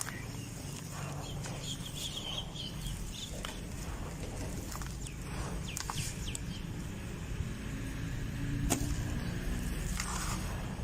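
Dry red dirt crumbling and crunching, with scattered sharp crackles over a steady low rumble. Short chirps, likely birds, are heard in the background about two and six seconds in.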